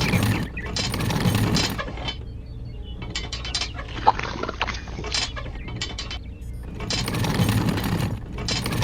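Clicking and rattling of a small gear mechanism over a low steady hum, swelling louder at the start and again near the end.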